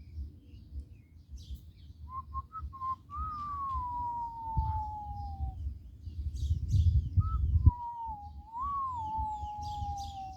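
Outdoor ambience with faint chirps of small birds over a low rumble. Twice, a loud whistle-like tone plays a few short notes and then glides slowly down in pitch for two to three seconds.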